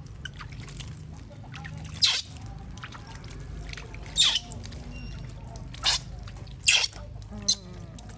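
Water splashing in five short, sharp bursts over a few seconds, as when a pet monkey is being showered.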